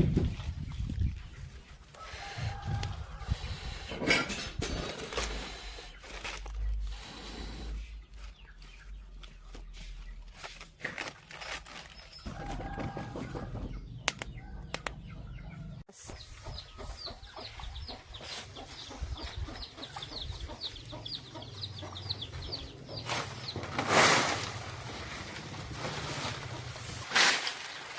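Chickens clucking, with short pitched calls now and then; about halfway through, a rapid run of high chirps, about three a second, goes on for several seconds. A few loud bumps near the end.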